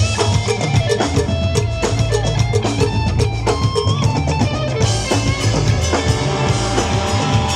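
A live band with drum kit, bass and guitar plays an instrumental passage with a steady beat.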